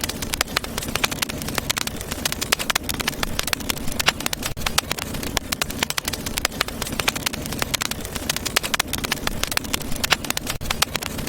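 Wood fire crackling in a fireplace: a dense, continuous run of sharp pops and snaps over a low steady rumble.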